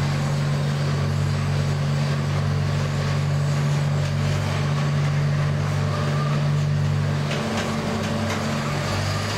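Miniature zoo train running through a corrugated-metal tunnel: a steady, loud low drone from the locomotive that shifts to a lower note about seven seconds in.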